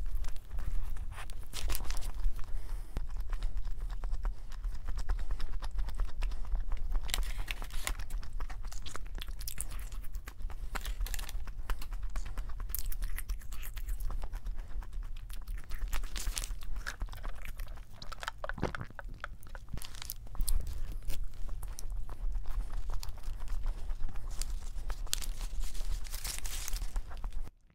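Close-up chewing and biting of a cheese burger and fries, with soft crunches and wet mouth sounds. Near the end the paper burger wrapper rustles.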